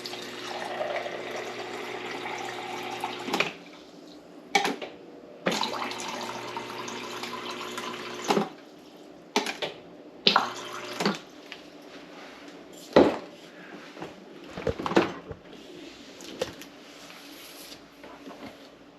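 Water running from an LG refrigerator's door dispenser in two pours of about three seconds each, with a steady hum under the flow, followed by several clicks and knocks. It is a test run after the water valve was replaced, to check whether the leak is cured.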